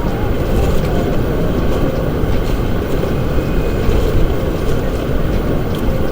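Strong wind buffeting the microphone: a loud, steady, low rumble that gusts and flutters unevenly.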